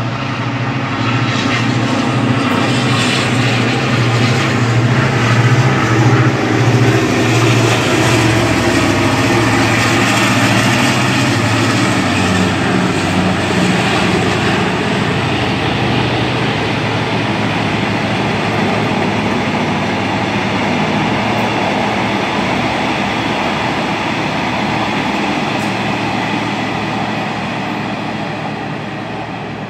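Thai railway diesel locomotive passing close by, its engine running strongly for the first dozen seconds. Then the steady rumble of the train's carriages rolling along the rails.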